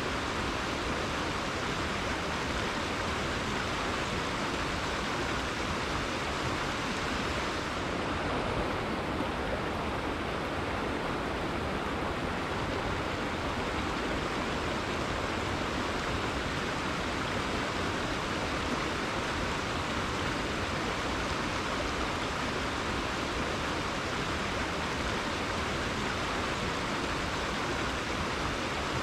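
Rainforest river flowing steadily: an even, continuous rush of water.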